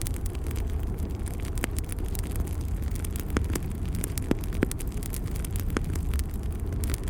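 Fire burning in a fireplace: a steady low rumble of flames with scattered sharp crackles and pops, several of them louder.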